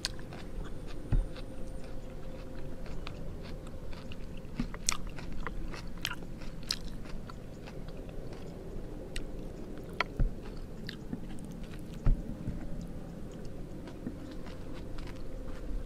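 A person chewing and biting grilled fish close to the microphone, with several short sharp clicks spread through, over a faint steady hum.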